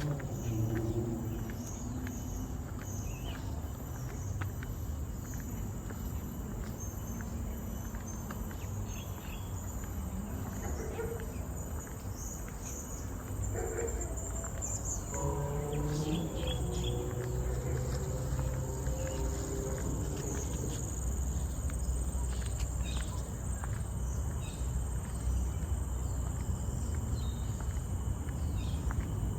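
Tropical forest insects holding a steady high-pitched drone, with scattered short bird chirps and a low rumble underneath.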